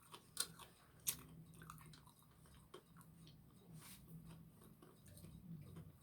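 Faint chewing of fried fish, with a couple of soft crunches in the first second or so.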